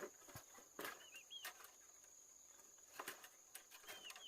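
A small bird calling faintly in quick runs of three short arched chirps, twice, over a steady high-pitched insect drone; a few soft clicks and knocks.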